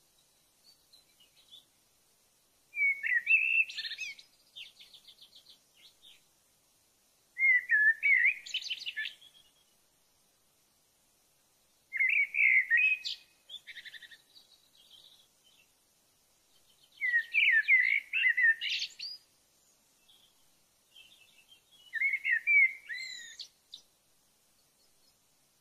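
A songbird singing five warbled phrases, each about two seconds long and repeated every four to five seconds, with near silence between them.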